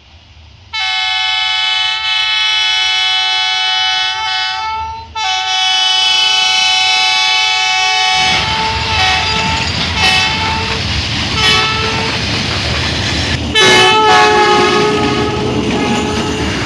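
Train horn blowing two long blasts, then a train passing close by with a loud steady rushing rumble, the horn sounding several short blasts over it and a longer one near the end. The sound cuts off suddenly.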